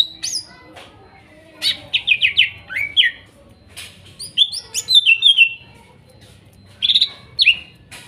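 Green leafbird (cucak ijo) singing in clusters of rapid, sharp whistled notes that sweep down and up in pitch, with short pauses between the phrases.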